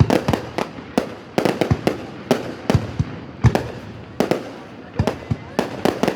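Fireworks going off: an irregular run of sharp bangs, often several within a second, in clusters with short gaps between.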